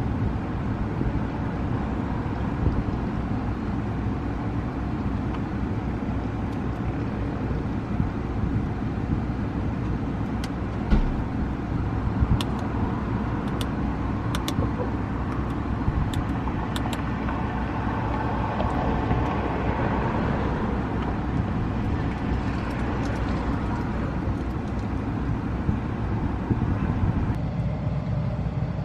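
Steady low rumble of car cabin noise in a BMW i3S, with a handful of sharp clicks through the middle as the sticky iDrive controller buttons are pressed.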